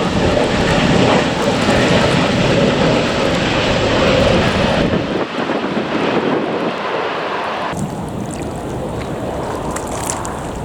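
Airliner engine noise as a plane goes by, mixed with wind on the microphone; it is loudest in the first few seconds and eases off after about five seconds.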